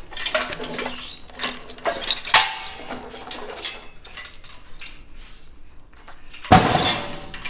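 Metal clanking and rattling as a heavy wheeled sandblaster with banged-up wheels is pushed and manoeuvred, with a louder clang about two seconds in and a heavier bang near the end.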